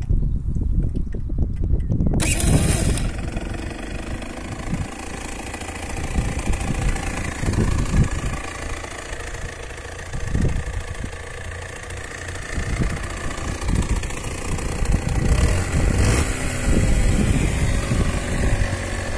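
Motorcycle engine started on the electric starter about two seconds in, then running at idle. Before it catches, only wind rumble on the microphone.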